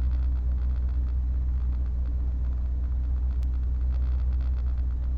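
Opel Kadett C GTE Group 2 rally car's four-cylinder engine idling steadily with a deep, lumpy rumble, heard from inside the cabin.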